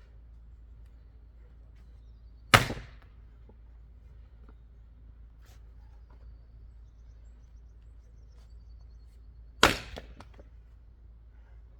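Axe chopping wood: two sharp strikes about seven seconds apart. A few light knocks follow just after the second strike.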